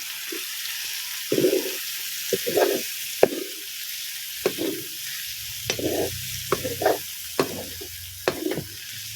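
Meat curry with freshly added tomatoes sizzling in a pan while a spoon stirs it, the spoon scraping and knocking against the pan at irregular moments over a steady frying hiss.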